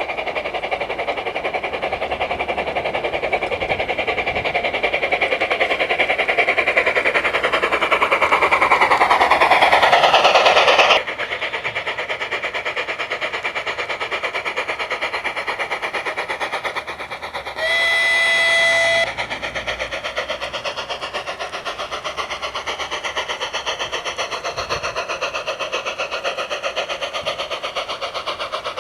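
Steam sound unit of a Märklin Gauge 1 Gt 2x4/4 Mallet tank locomotive model playing rapid, steady chuffing as the model runs. A louder rushing passage builds and cuts off abruptly about eleven seconds in. Past the halfway point comes a single steady whistle blast of just over a second.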